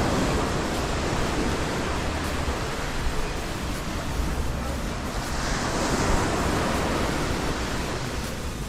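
Ocean surf washing up on a sandy beach, swelling at the start and again about six seconds in.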